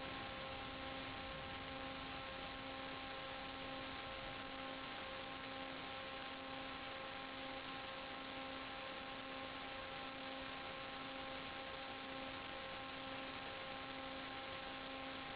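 Steady electrical hum with hiss, one fixed low pitch with a row of overtones, unchanging throughout, typical of the audio channel of an analog 5.8 GHz FPV video link.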